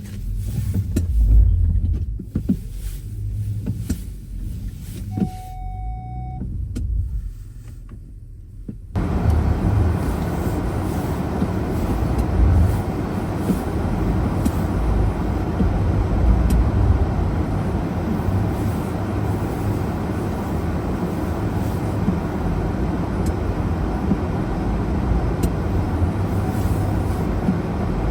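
A car driving on a snow-covered road: a low rumble at first, with a short steady beep about five seconds in. From about nine seconds a steady, louder rushing road and tyre noise sets in suddenly.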